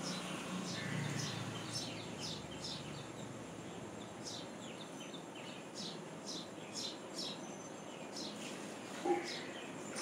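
Small birds chirping: short, high chirps repeated a few times a second over steady outdoor background noise, with one louder, lower call about nine seconds in.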